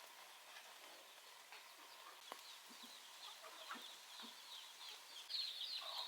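Chickens clucking faintly, with many quick high chirps that grow busier and louder about five seconds in.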